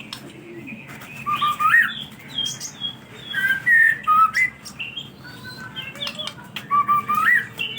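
White-rumped shama (murai batu) singing a series of loud whistled phrases of rising and falling notes, with short pauses between them.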